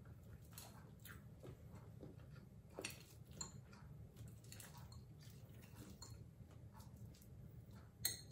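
Quiet chewing of a fried egg, with light clicks of a metal fork against a plate; the sharpest click comes near the end. A faint steady low hum runs underneath.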